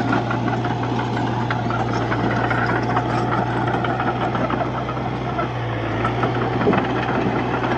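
Komatsu D31-P bulldozer's diesel engine running steadily, with a dense clatter over its low, even hum.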